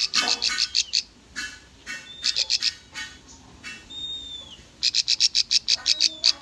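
Bar-winged prinia (ciblek) singing: runs of rapid, sharp repeated notes, with a thin falling whistle about four seconds in and a fast burst of notes near the end.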